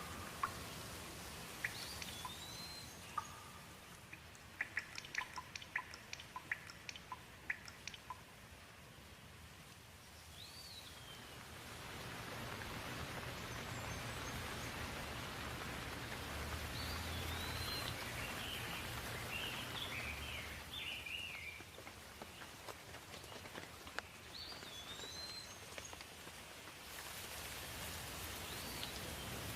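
Rain falling steadily, swelling heavier for a long stretch in the middle and again near the end, with a run of close drops tapping between about four and eight seconds in. A bird calls with short rising-and-falling chirps several times over the rain.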